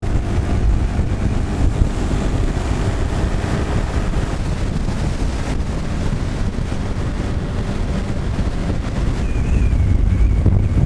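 Heavy wind buffeting the microphone, a dense low rumble throughout. A faint high steady tone joins near the end.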